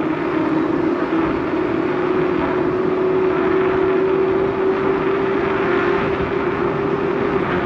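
Steady rushing noise with a steady motor-like hum that edges slightly up in pitch and drops away near the end, as heard while riding a bike.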